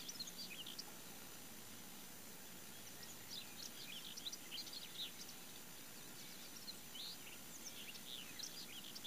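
Small birds chirping, with many short, high chirps scattered throughout over a faint, steady background hiss.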